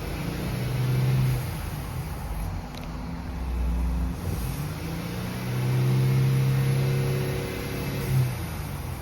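2016 Mercedes-Benz GL engine being revved from idle: a short rev about a second in, then a longer rev held for around three seconds near the end that cuts back to idle.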